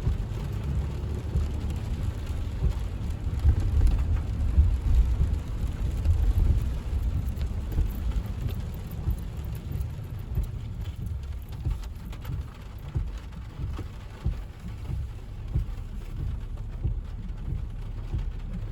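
Inside a car driving in the rain: a steady low rumble of tyres and road on wet pavement, with small jolts, loudest about four to six seconds in.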